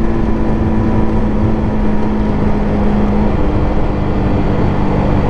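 Motorcycle engine running at road speed, a steady engine tone whose pitch shifts a little past three seconds in, over heavy wind and road rumble.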